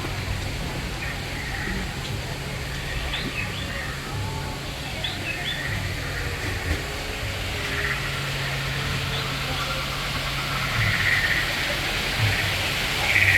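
Outdoor ambience with a steady low hum, faint distant voices and a few short, high chirps like birdsong.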